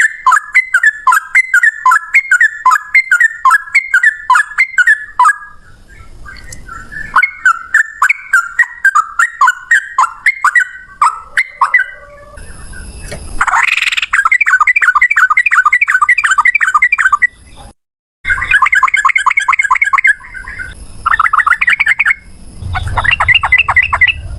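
Yellow-vented bulbuls (trucukan) singing loudly: a run of repeated bubbling phrases, two or three a second, then from about halfway on fast rattling trills (ropel). The song breaks off for a moment about three quarters of the way in.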